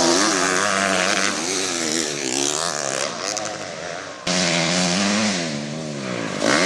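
Motocross dirt bike engine revving, its pitch swinging up and down repeatedly as the throttle is worked. The sound fades somewhat, then cuts back in loud and abruptly about four seconds in.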